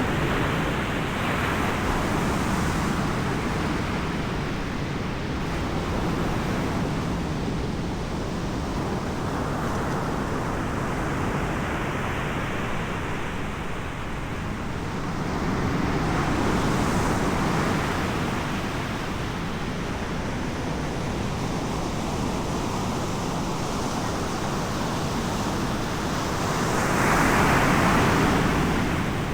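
Ocean surf breaking on the shore in slow swells, the roar rising and falling every several seconds, with wind buffeting the microphone.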